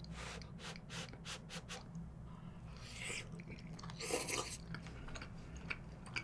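Close-miked chewing of grilled beef intestines with chives: sharp, wet clicks about three or four a second, then two short breathy hisses about halfway through.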